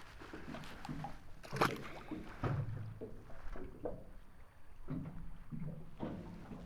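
Water lapping and slapping against the hull of a small boat, with scattered light knocks and one sharp click about one and a half seconds in.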